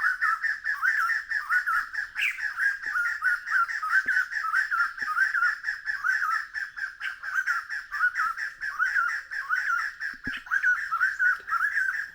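A bird calling with a fast, even run of short, rising whistled notes, about three or four a second, kept up without a break.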